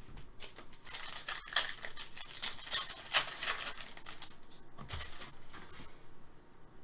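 Hockey trading cards and their packaging being handled: a run of crinkling and rustling that thins out about five seconds in.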